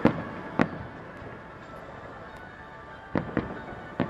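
Aerial firework shells bursting in a series of sharp bangs: two in the first second, then three in quick succession about three seconds in, with music playing underneath.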